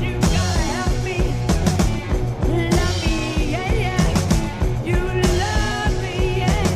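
Early-1970s heavy rock band recording: electric guitar, bass and drums playing together, with bending lead lines and several cymbal crashes.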